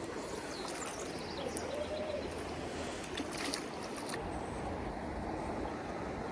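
Steady rushing of a fast river, with a few light clicks about three to four seconds in.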